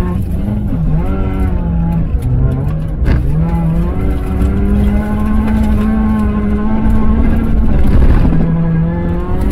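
Race car's engine heard from inside the cabin under hard throttle on a gravel track, its revs dropping and climbing again several times through gear changes and corners, over a heavy low rumble.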